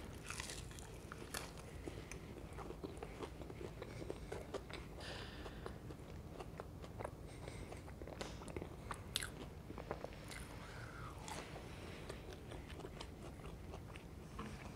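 Crunching and chewing of a crispy onion pakora, a gram-flour-battered fried fritter, with many sharp crackles from the crisp batter and one sharpest crunch about nine seconds in.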